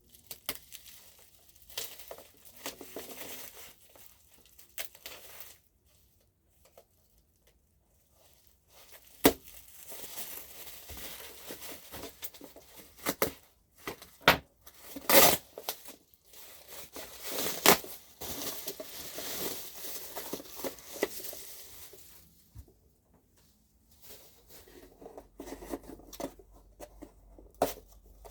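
Plastic bubble wrap and packaging being pulled off by hand: irregular crinkling and tearing, with several sharp clicks around the middle and two short pauses.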